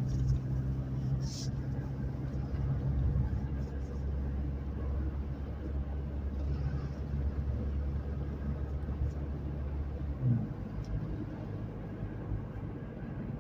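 Car driving, heard from inside the cabin: a steady low drone of engine and road noise. About ten seconds in, the deepest part of the hum drops away.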